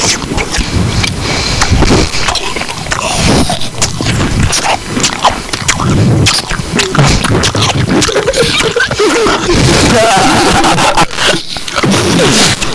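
Close-up eating noises: chewing and crunching with many sharp clicks and scrapes, mixed with muffled voice sounds.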